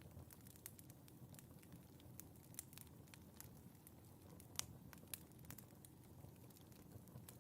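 Wood fire in a fireplace crackling: quiet, irregular sharp pops over a low, steady rumble, with one louder pop about halfway through.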